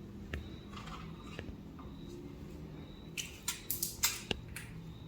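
Indian ringneck parrot splashing in its bath water: a quick run of short splashes about three seconds in, over a steady low hum.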